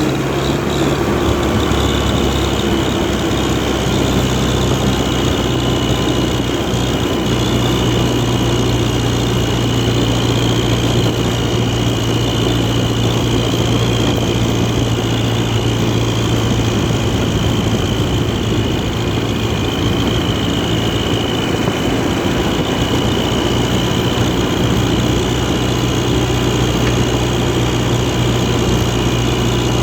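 International Harvester 444 tractor engine running steadily at a constant speed, with a steady high whine above the engine note.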